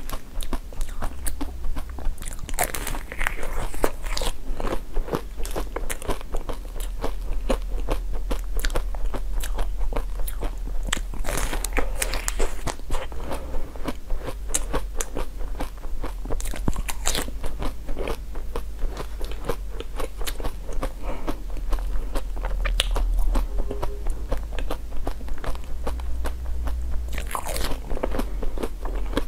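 Close-miked biting, crunching and chewing of frozen, sugar-crusted sweets: many small crisp crackles and crunches, over a low steady hum.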